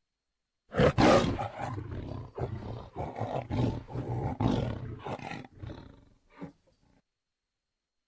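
A tiger's loud roar starting about a second in, breaking into a run of pulsing growls that die away over the next several seconds.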